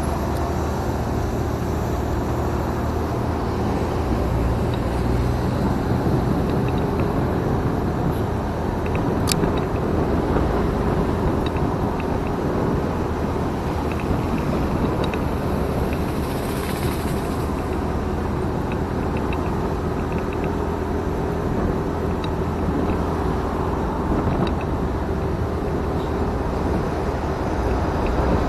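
Motorcycle engine running steadily under wind and road noise while riding, with a sharp click about nine seconds in and a brief hiss around the middle.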